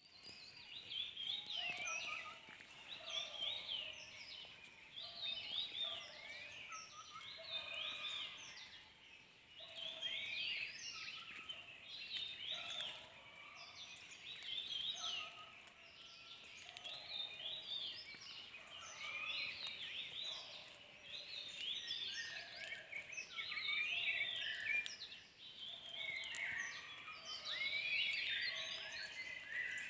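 Several birds chirping and chattering, with many short, quick calls overlapping in clusters every second or two.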